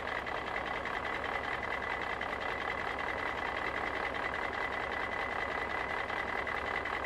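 Steady mechanical whirring with a thin high whine running through it, from a Paw Patroller toy truck being set going.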